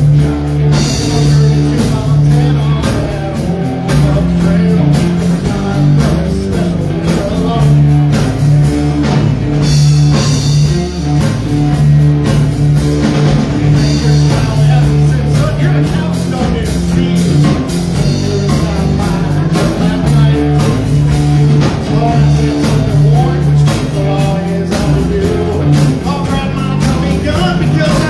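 Live rock band playing loudly: electric guitar, bass and drum kit.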